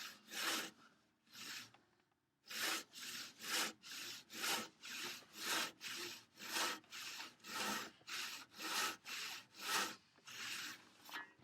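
Hand saw crosscutting through a thick wooden workbench leg to length, with steady back-and-forth strokes about two a second after a short pause near the start.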